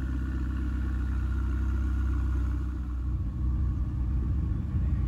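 Ferrari 488 GTB's twin-turbo V8 idling with a steady low rumble.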